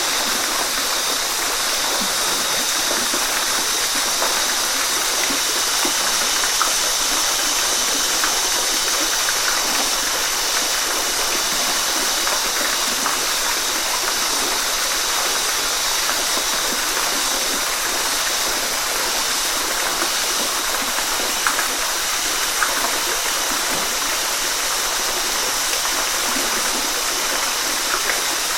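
Waterfall: a steady, even rush of falling and running water, with a few small splashes.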